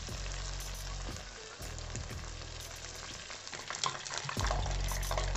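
Vadai (lentil fritters) deep-frying in hot oil, a steady sizzle; near the end a wire skimmer stirs and scoops them in the oil.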